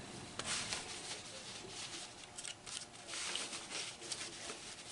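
Faint scattered clicks and scratching of small parts and tools being handled.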